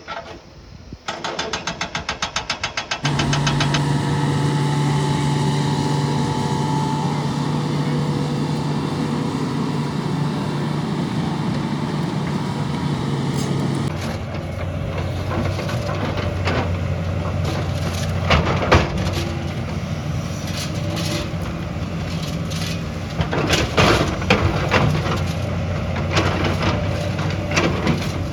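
Heavy diesel engine of construction machinery: a rapid, even pulsing for about two seconds, then a steady engine note. Later the engine runs rougher, with repeated sharp metallic knocks and clanks, thickest near the end.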